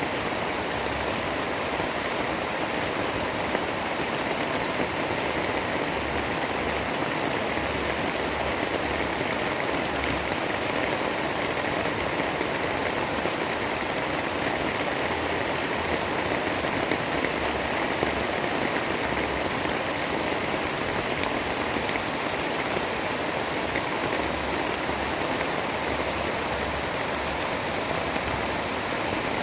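Steady storm ambience of heavy rain: an even, unbroken hiss with no thunderclaps or gusts standing out.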